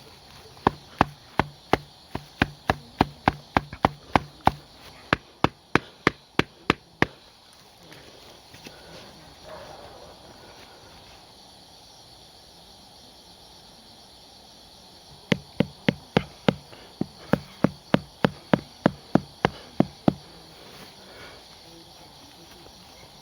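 Hatchet striking wood in two runs of quick, sharp blows, about three a second, with a pause of several seconds between them: carving or driving home a wooden tent stake.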